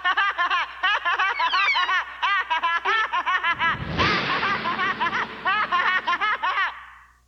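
High-pitched cartoon character voice laughing and chattering in quick, rapid-fire syllables, with a brief rushing noise about four seconds in; it fades out near the end.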